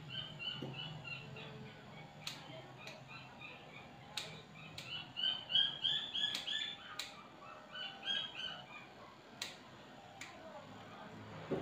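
Small birds chirping in quick series of short, high notes, with the sharp clicks of grooming scissors snipping now and then.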